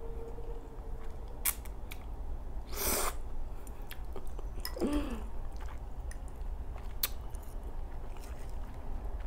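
Close-up mouth sounds of eating creamy spaghetti: chewing and wet smacking, with a few sharp clicks, a short noisy rush about three seconds in and a brief falling hum near five seconds.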